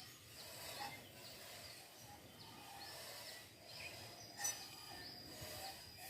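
Quiet outdoor ambience: faint small-bird chirps over a steady background hiss. There are two brief louder sounds, about a second in and about four and a half seconds in, and a thin steady high tone near the end.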